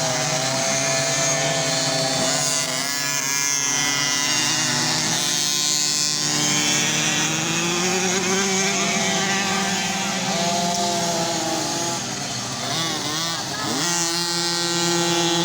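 Several motocross bike engines running at once, revving up and down as they race, their pitches overlapping. About 13 seconds in, one engine's pitch drops sharply and climbs again.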